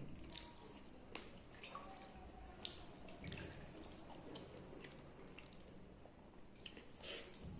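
Faint wet eating sounds: water-soaked rice (basi pakhala) being scooped by hand and chewed, with scattered small clicks and drips.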